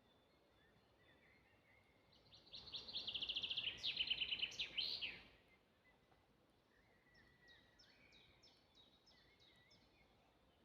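A songbird sings one loud song of about three seconds: a fast run of repeated high notes ending in a flourish of quick sweeping notes. Later, fainter birdsong follows, a series of short high notes about four a second.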